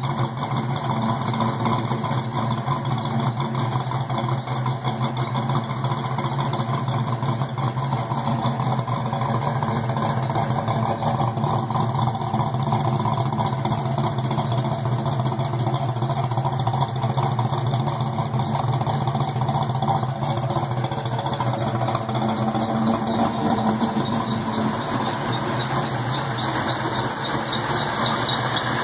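Fox-body Mustang's 331 cubic-inch stroker small-block Ford V8 with a Trick Flow Stage 3 cam, idling steadily and heard at the exhaust tip.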